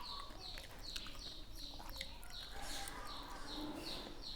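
A bird calling in a steady series of short, high, falling chirps, about three a second.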